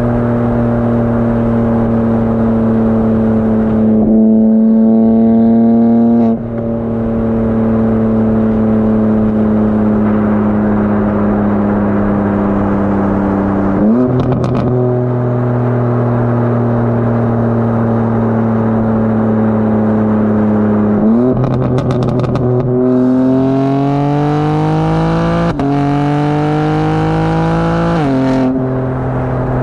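BMW G82 M4 Competition's twin-turbo S58 straight-six, with high-flow cats and downpipes, running under light load with its pitch slowly falling. It pulls briefly a few seconds in, rises sharply in quick blips around the middle, then accelerates hard near the end, with one upshift partway through before lifting off.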